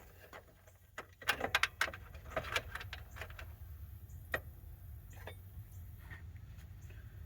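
Small metal tools or parts being handled: a quick cluster of clicks and clinks over a couple of seconds, then one sharper click, then a few faint ones, over a steady low hum.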